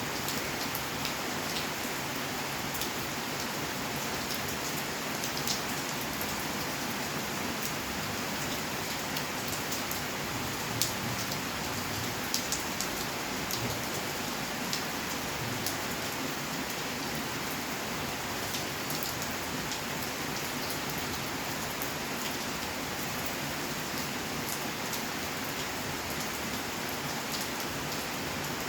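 Steady rainfall, an even hiss with scattered sharper drips and taps of individual drops striking surfaces.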